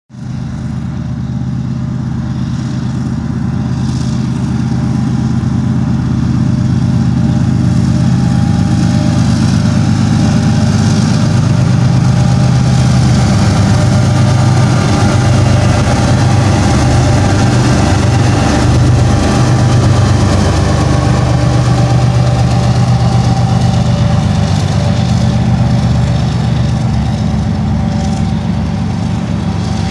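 Two BNSF GE ES44C4 diesel-electric locomotives passing close, their 12-cylinder GEVO diesel engines running loud and steady, loudest as they go by about halfway through, followed by the autorack cars rolling along the rails.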